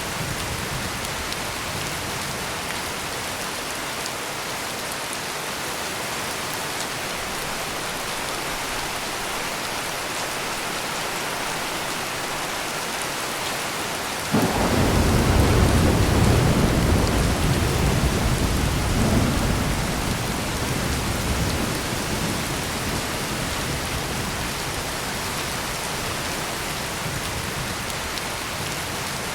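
Heavy rain falling steadily, with a single clap of thunder about halfway through that starts suddenly and rumbles low for several seconds before fading back under the rain.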